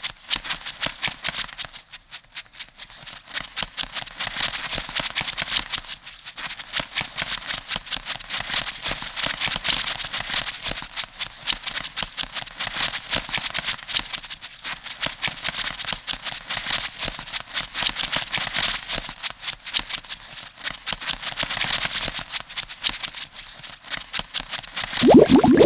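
Crab sound effect: a dense, continuous run of rapid clicking and crackling, like a crab's legs and claws scuttling. Near the end it gives way to a different bubbling sound with rising pitch.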